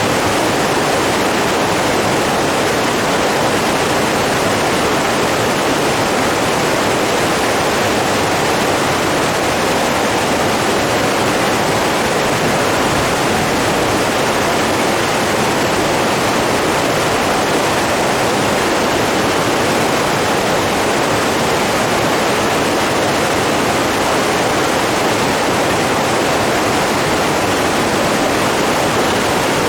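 Running water rushing steadily and evenly, with no breaks, swells or separate splashes.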